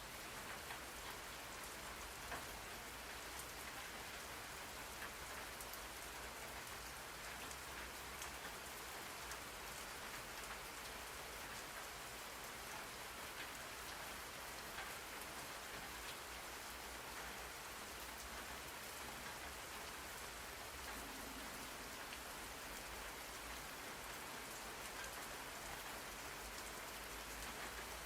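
Steady rain falling on a surface, an even hiss dotted with many small droplet ticks.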